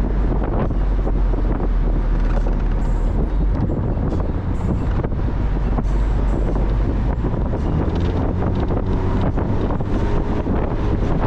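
Wind buffeting the microphone in a moving Mazda Miata, over a steady rumble of engine and road noise.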